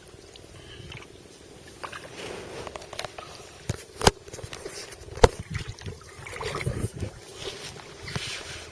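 Paddle strokes splashing and dripping in the water beside an inflatable kayak, uneven swells of water noise. Two sharp knocks about a second apart in the middle stand out as the loudest sounds.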